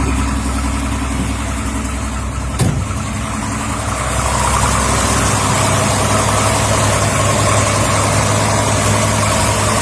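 1969 Pontiac Firebird's 350 V8 running at idle just after starting. There is a sharp click a little under three seconds in, and from about four seconds in the engine sound fills out and gets a little louder.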